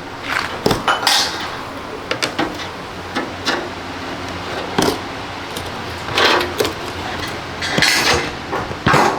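Irregular metallic clinks, knocks and short scrapes of hand tools and parts being handled while a front-loading washing machine is worked on.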